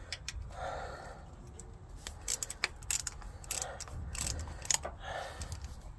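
Irregular sharp metallic clicks and small clanks of hand tools as the last bolt of the oil filter housing is worked loose.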